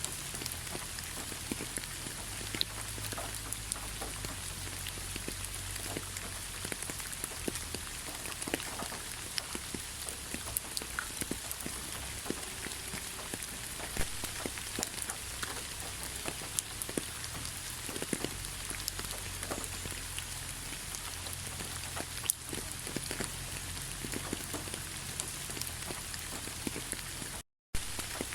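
Steady rainfall, an even hiss with many individual raindrops landing as distinct sharp ticks. The sound cuts out completely for a split second near the end, then resumes.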